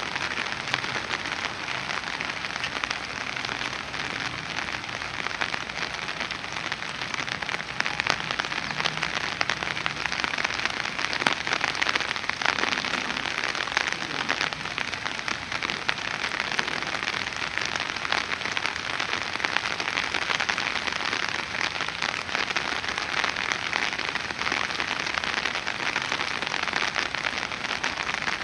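Heavy rain falling steadily on a surface, a dense even patter of drops.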